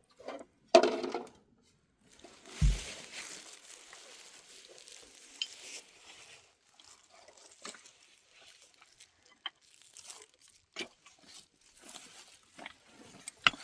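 Household handling sounds: a sharp knock about a second in, a low thud a couple of seconds later, then scattered small clicks and faint crinkling.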